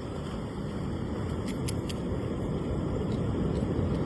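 Steady low rushing noise of wind on the microphone and surf, growing slightly louder, with a few faint clicks about a second and a half in.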